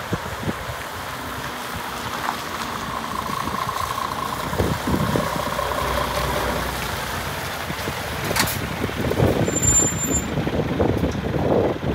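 Scania G500 tipper truck's diesel engine running, with a steady whine for a few seconds in the first half and irregular knocks toward the end.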